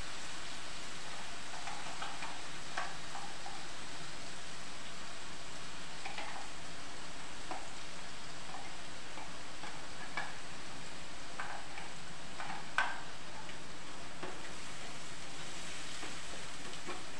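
Ground onion sizzling steadily in hot oil in a nonstick kadhai, with light scattered clinks of a steel spoon scraping it out of a mixer-grinder jar and stirring. The sharpest clink comes about three-quarters of the way through.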